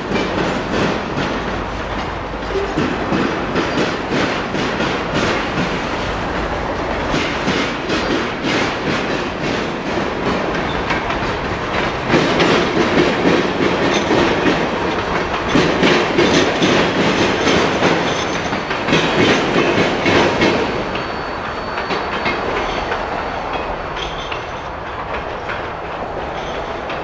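Freight cars rolling past, their steel wheels clattering rhythmically over rail joints and a diamond crossing. The clatter is loudest through the middle and eases off near the end.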